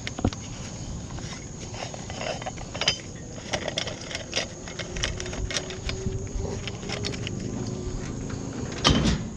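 Irregular knocks and clinks of scrap items being handled and moved about, over a low background rumble.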